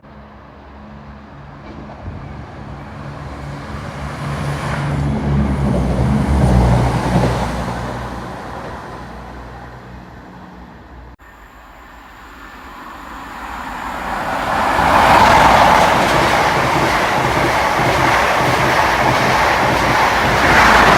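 Diesel trains passing through a station. First an engine's deep hum rises to a peak and fades away, then it cuts off abruptly, and a second train builds to a loud, steady rush of wheel and rail noise that lasts to the end.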